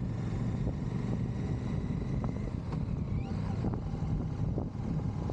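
Motorcycle on the move: a steady low engine rumble from a Royal Enfield 650 parallel twin under wind rushing over the microphone.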